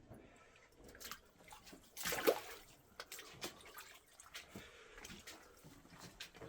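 Boots wading through ankle-deep water, giving faint splashes and drips, with one louder splash about two seconds in.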